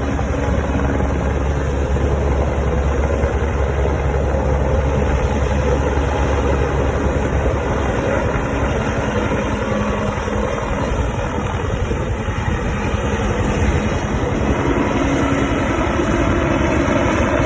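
Helicopter rotor and turbine running steadily and loudly, with low steady tones under a deep rumble. The deepest part of the rumble eases about halfway through, and a higher steady tone joins near the end.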